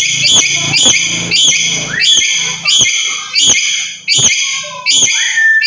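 Black-capped lory giving a fast series of loud, shrill, repeated calls, about two or three a second.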